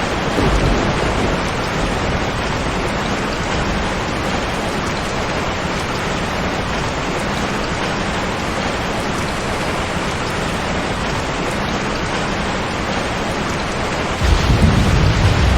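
Steady rain, an even hiss of heavy rainfall, with low thunder rumbling: a brief swell just after the start and a louder rumble setting in near the end.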